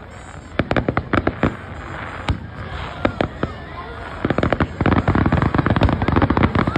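Aerial fireworks display: sharp bangs and crackles from bursting shells, scattered at first, then a dense rapid volley of pops starting about four seconds in.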